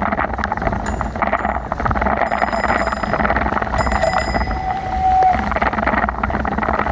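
Wind buffeting the microphone over road and traffic noise while riding a bicycle, with a brief steady whine lasting about a second, some four seconds in.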